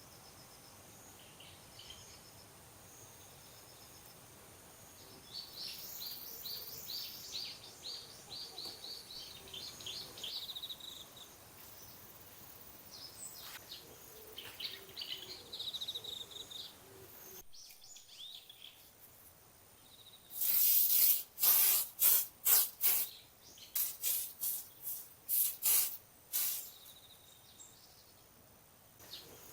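Small birds chirping and trilling over a faint outdoor background. After an abrupt change, a series of about a dozen loud, short, rasping strokes in irregular bursts.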